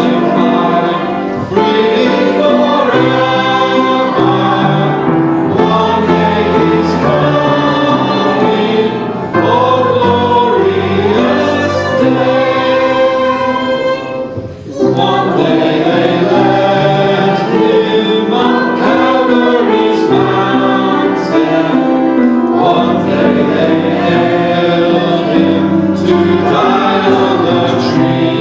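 Choir singing a gospel hymn over instrumental accompaniment, with a short dip in the music about halfway through.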